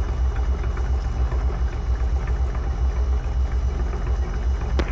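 Stinson light plane's piston engine idling steadily with a low, even pulsing rumble, heard from inside the cabin while waiting in the departure line.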